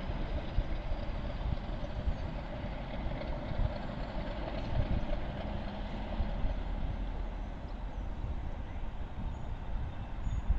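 A train running by with a steady rumble that eases off slightly near the end.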